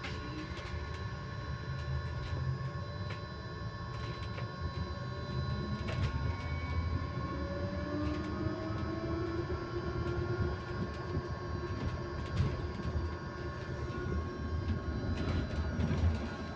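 Inside an electric bus: a steady high-pitched tone holds at one constant pitch over the low rumble of the road, while the motor whine rises in pitch as the bus picks up speed partway through. Occasional knocks and rattles from the body.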